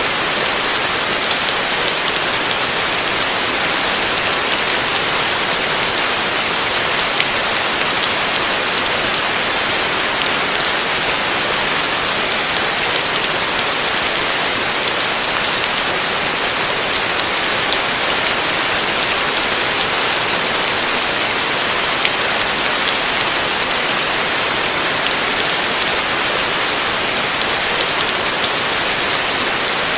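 Heavy rain falling steadily on a roof, a dense even hiss with scattered drop ticks.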